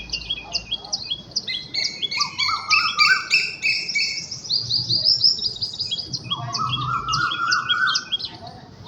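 Several birds chirping and singing at once, with quick repeated high chirps throughout. Twice a lower series of rising notes joins in.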